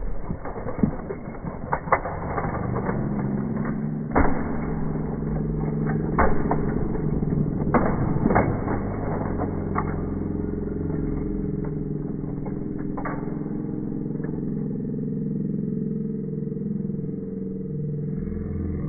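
Slowed-down audio of a toy monster truck crashing into and crushing toy cars: scattered sharp knocks over a low, steady rumble, with the knocks dying out about two-thirds of the way through.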